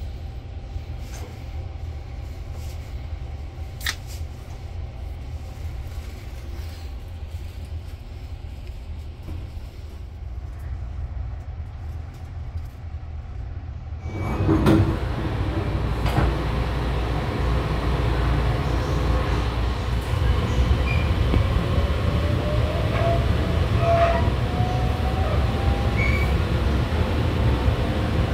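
Inside a Sunrise Seto sleeper car, a 285-series electric train: a steady low rumble at first. About halfway through it steps up suddenly with a clunk into louder running noise, with a faint rising whine a few seconds later as the train gets moving.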